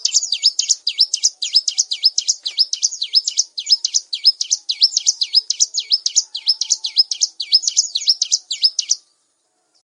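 Bar-winged prinia singing: a fast, even run of sharp chirps, about four to five a second, each sweeping down in pitch, that cuts off suddenly about nine seconds in.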